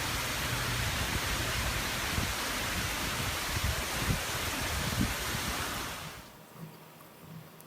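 Tropical-storm wind and surf: a steady rushing noise with low buffeting thumps of wind on the microphone, which cuts off sharply about six seconds in.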